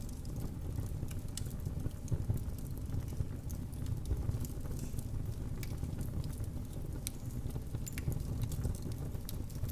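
Wood fire in a fireplace burning steadily: a low rumble of flames with irregular small crackles and pops throughout.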